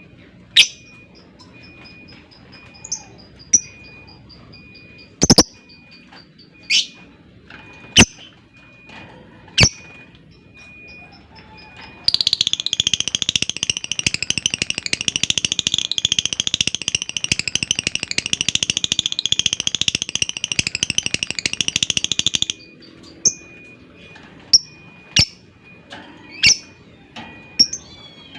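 Lovebird giving single sharp, shrill calls, then breaking into a loud, very rapid chatter (ngekek) that lasts about ten seconds and stops abruptly, followed by more single sharp calls.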